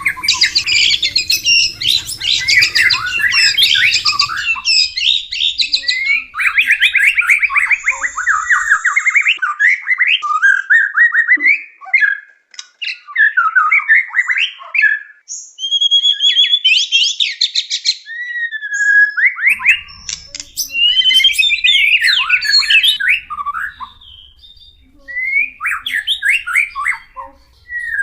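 White-rumped shama (murai batu) singing a long, varied song of rich whistles, rapid trills and slurred, gliding notes, with brief lulls between phrases.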